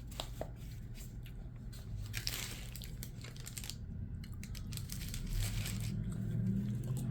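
Food wrapping crinkling and tearing in two stretches, the first about two seconds in and the second about five seconds in.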